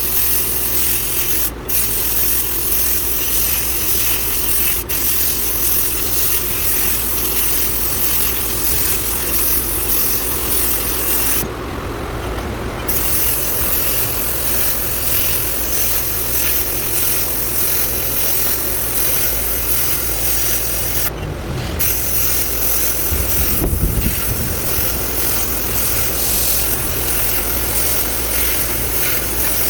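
Sandblaster running: a loud, steady hiss of compressed air driving abrasive. The blast stops for a moment about a second and a half in, for over a second around the middle, and again about two-thirds of the way through.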